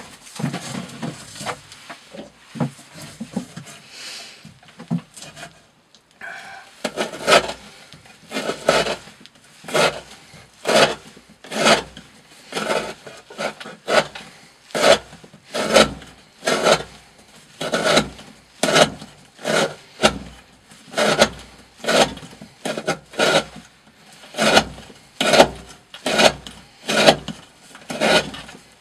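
A D2-steel knife blade slicing through a thick rope, one rasping cut about every second, after some quieter irregular handling sounds in the first few seconds. The edge is still cutting cleanly after several hundred cuts.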